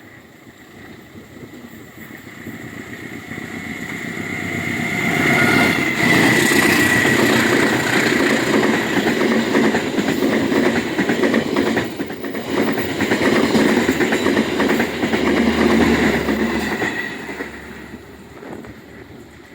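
A train passing at speed on the rails: the rumble grows louder, holds loud with fast wheel clatter for about ten seconds, then fades away.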